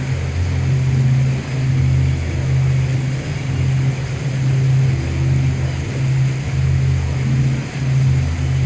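Boat engine running with a loud, low drone whose level wavers slightly.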